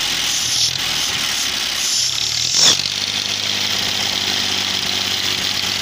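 Tractor engine running steadily, with one sharp knock about two and a half seconds in.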